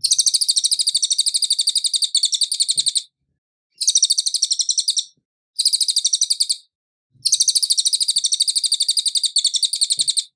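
Cililin bird singing: fast trills of high, evenly repeated notes, about eight a second, in four bouts with short silent pauses between them. The first and last bouts run about three seconds each; the two in the middle are shorter.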